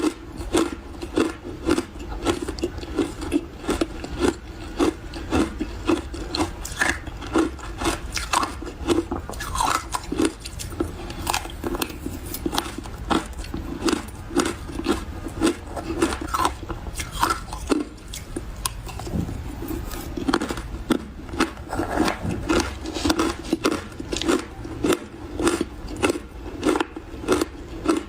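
Close-miked chewing of refrozen powdery ice: soft crunches repeating a few times a second as the ice is bitten and ground between the teeth.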